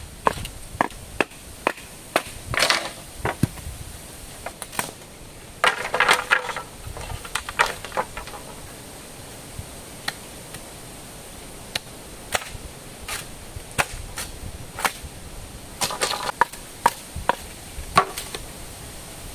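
Sharp wooden knocks and cracks at irregular intervals as wood is chopped by hand. Two longer, rasping strokes come about six and sixteen seconds in.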